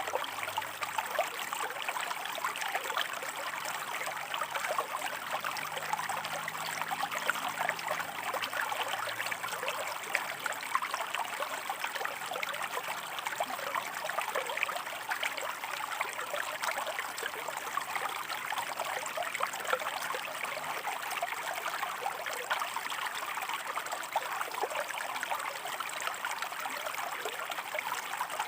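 A shallow forest stream running over rocks, a steady rushing babble of water dense with small splashes and trickles.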